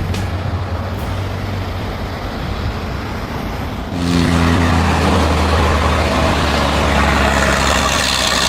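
Heavy truck engines running steadily. About four seconds in there is an abrupt cut to a louder truck engine with more hiss.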